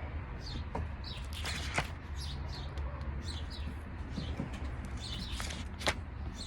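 Birds chirping with short, high, repeated notes, over a steady low hum. Two sharp knocks stand out, about two seconds in and near the end.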